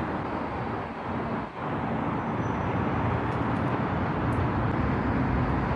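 Steady traffic noise, with a brief dip in loudness about a second and a half in.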